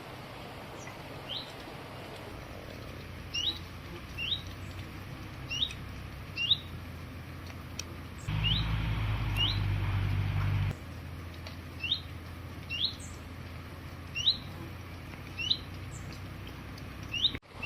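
A small songbird calling, a short rising chirp repeated roughly every second. A low rumble comes in for a couple of seconds midway.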